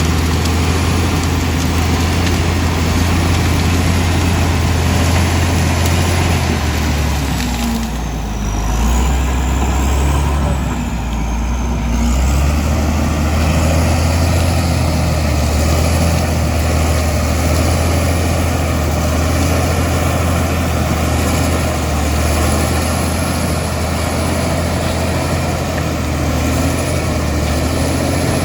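Komatsu D65E bulldozer's diesel engine running steadily and loudly. Its low note shifts for a few seconds around the middle as the load changes, with a faint wavering high whine above it.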